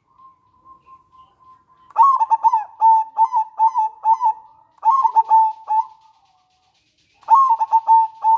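Zebra dove (perkutut) cooing: a faint drawn-out note, then three phrases of quick, clipped coos, five or six notes to a phrase.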